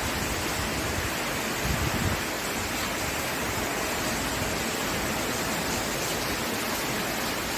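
Heavy rain pouring steadily in strong wind, a dense even hiss, with gusts buffeting the microphone in low rumbles, strongest about two seconds in.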